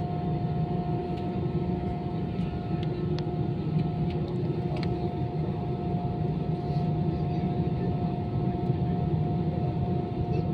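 Steady cabin noise inside an Airbus A320-214 with its engines running: a low rumble with one constant mid-pitched whine, and a few faint clicks.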